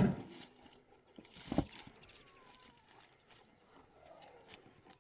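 Two sharp knocks, one at the start and a lower, heavier one about a second and a half in, with faint ticks and rustling between them.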